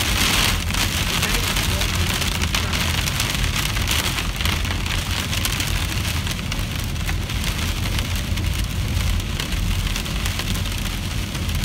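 Rain falling on a car's roof and windshield, heard from inside the moving car as a dense, steady hiss of drops over the low, steady rumble of the car on the road.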